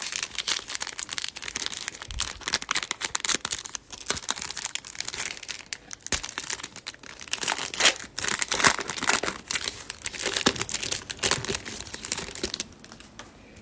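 A foil trading-card pack wrapper crinkling and being torn open, with cards being handled: a dense crackle of many quick ticks throughout.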